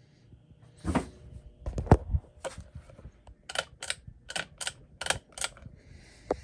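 A series of sharp mechanical clicks and knocks, irregular at first, then coming about two to three a second in the second half.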